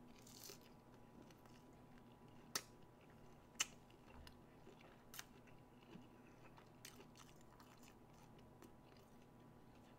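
Faint chewing of a McDonald's chicken nugget, with a few soft mouth clicks, two of them sharper and about a second apart a few seconds in, over a low steady hum.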